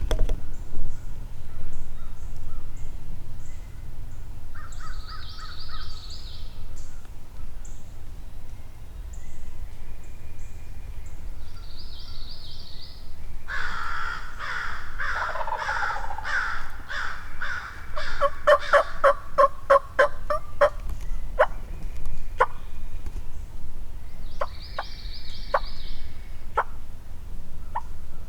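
Wild turkey gobbler gobbling once, a loud rattling gobble about halfway through. It is followed by a quick run of sharp clucking notes and then scattered single sharp notes, with short high songbird trills in between.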